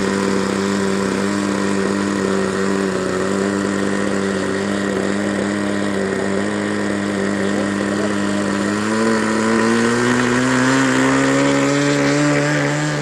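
Radio-controlled model plane's engine and propeller running steadily at one pitch, then rising in pitch and getting louder about nine seconds in.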